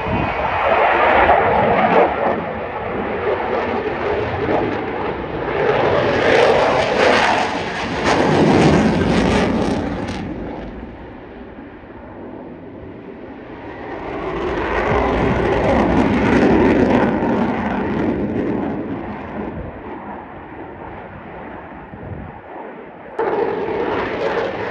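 Twin-engine jet roar of a Eurofighter Typhoon in a solo display, with its two EJ200 turbofans. The roar swells and fades three times as the jet makes passes, and jumps up suddenly near the end.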